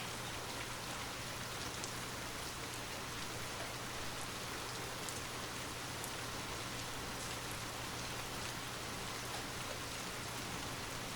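Steady rain falling, an even hiss with scattered small drop ticks, over a faint constant low hum.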